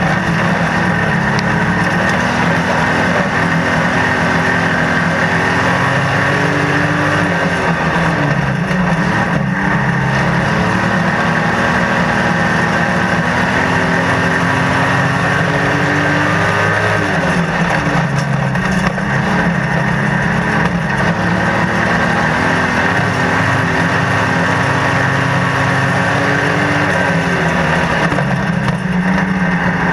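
Racing stockcar's engine heard from inside the cockpit, running hard the whole time, its pitch dropping and climbing again about every ten seconds.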